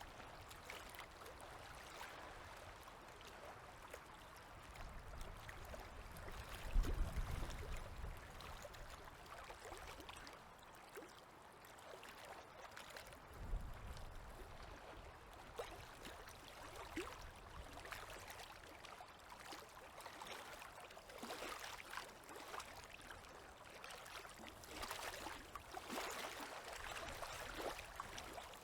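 Small river waves lapping and trickling at the water's edge, with scattered little splashes. A low thump comes about seven seconds in, the loudest moment, and a shorter one near the middle.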